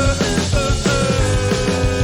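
Rock band playing a song, loud and steady, over a driving drum beat. From just under a second in, a held note sinks slowly in pitch.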